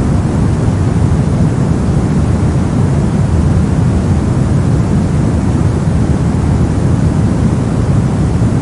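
Synthetic brown noise: a steady, even rumbling hiss, strongest in the low end and fading toward the highs, with no changes.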